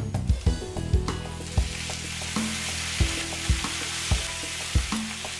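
Chicken, onion and potato cubes sizzling as they fry in a nonstick pan, the sizzle swelling about a second in, over background music with a steady beat.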